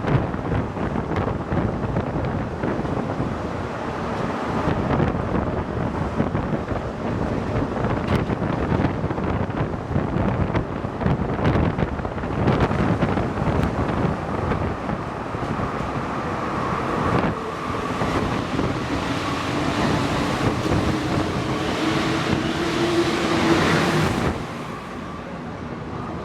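Santiago Metro NS-88 rubber-tyred train running through the tunnel, a loud rumbling and rattling ride noise. Over the last several seconds a whining tone rises above it, and the noise falls off shortly before the end as the train slows.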